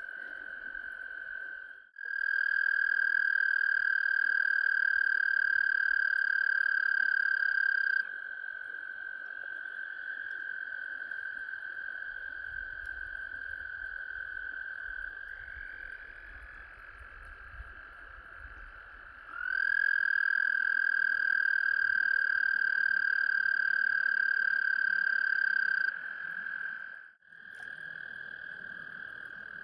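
A chorus of frogs giving long, steady, high trills that overlap. A nearer frog's trill rises louder for about six seconds near the start and again in the second half, and another trill at a slightly higher pitch joins in midway.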